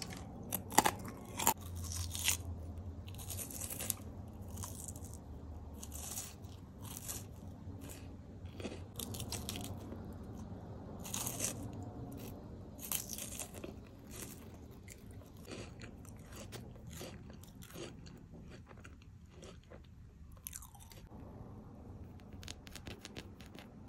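Close-miked mouth sounds of crisp snacks being bitten and chewed: ridged potato chips crunched at first, then bites into a chocolate-coated wafer bar. The sharp crunches come in irregular bursts, most often near the start and fewer and softer toward the end.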